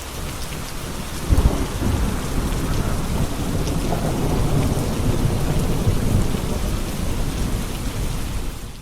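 Steady rain, with a long low roll of thunder that starts about a second in and rumbles on through most of the stretch; the sound fades out at the very end.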